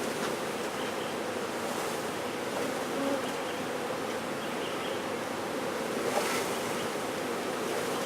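Honey bee swarm buzzing, a dense, steady hum of many bees.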